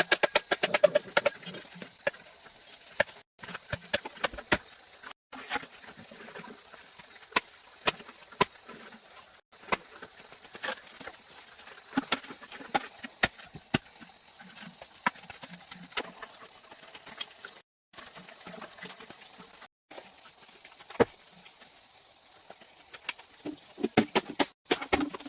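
Scattered sharp taps and knocks over a steady high hiss, with quick runs of clicks at the start and again near the end.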